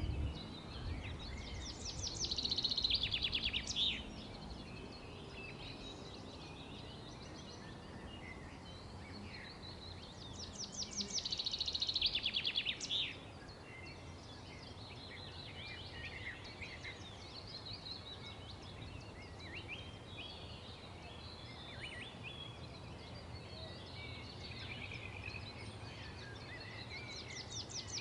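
Songbirds singing: a rapid trilled phrase about two seconds long comes twice, a few seconds in and again about eleven seconds in, with scattered shorter chirps between, over a steady low background hum.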